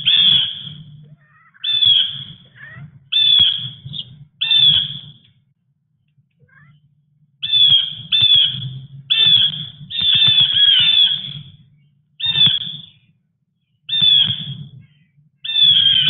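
A bird's harsh, squawking calls, repeated about a dozen times at roughly one-to-one-and-a-half-second intervals, each call falling in pitch, with a pause of about two seconds midway.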